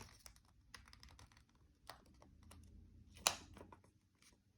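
Faint scattered ticks and rustles of origami paper being handled and pressed into creases, with one sharper click a little past three seconds in.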